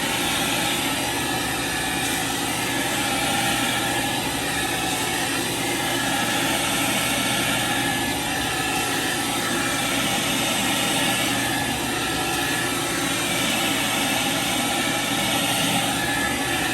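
Carpet-cleaning machine running steadily: a continuous loud whirring hiss that swells and eases slightly every few seconds.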